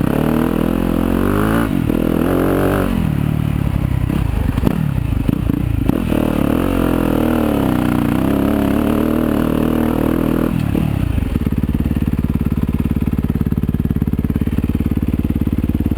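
Yamaha YZ250FX dirt bike's 250 cc single-cylinder four-stroke engine, its pitch rising and falling under the throttle while riding, then settling to a steady idle about eleven seconds in.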